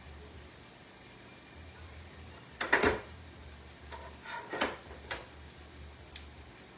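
Kitchen clatter of utensils and dishes being handled and set down. The loudest cluster of knocks comes near the middle, followed by a few lighter ones and a single click near the end.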